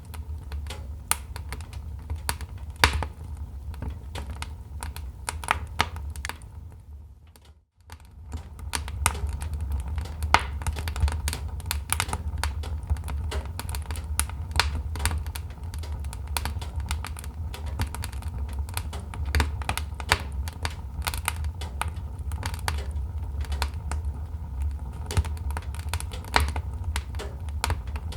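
Wood fire crackling: dense, irregular sharp pops and snaps over a steady low rumble. About seven seconds in, the sound briefly fades almost to nothing and then comes back.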